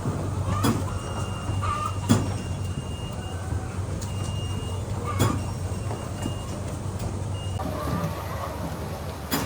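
Poultry-house machinery running with a steady low hum, with a few sharp knocks and a thin high tone now and then, and hens clucking faintly.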